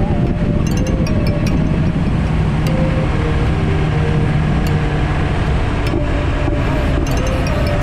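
BMW S1000RR sport bike's inline-four engine running at a steady speed under a constant rush of riding noise, with its note shifting near the end.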